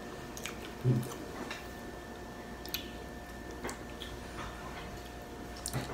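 Close-up eating sounds: soft wet mouth clicks and smacks while chewing a bite of a tortilla wrap, with a brief low hum-like vocal sound about a second in.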